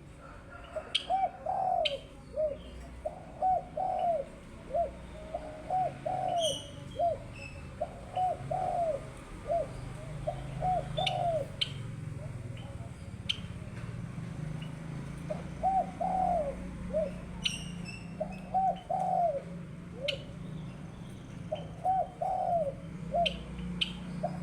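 Birds calling: a steady run of low, arched, cooing notes in twos and threes, one group about every second. Sharp high clicks and chips sound now and then between them.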